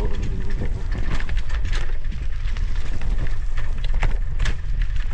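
Bicycle rattling and knocking over a rough, muddy trail, with frequent short clicks over a steady low rumble of wind buffeting the microphone.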